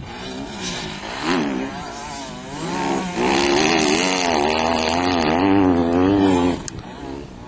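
Motocross bike engine revving, its pitch rising and falling with the throttle. It gets louder about three seconds in and drops away suddenly near the end.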